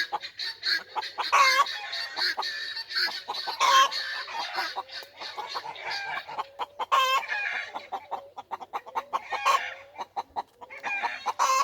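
A mixed flock of chickens and guinea fowl calling together as they settle to roost: a dense, continuous chorus of rapid harsh chatter and clucking.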